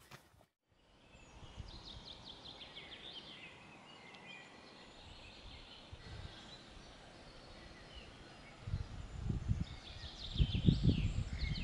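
Small birds chirping and trilling over outdoor ambience, with low rumbling swells in the last few seconds that are the loudest sound.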